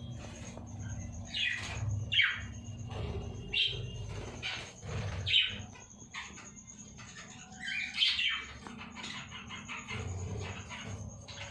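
Budgerigars in a colony aviary chirping and chattering, with several loud chirps standing out and many short clicking calls between them.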